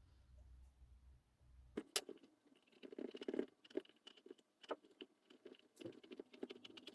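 Light clicks, taps and scraping of objects being handled. A low hum underneath stops about two seconds in.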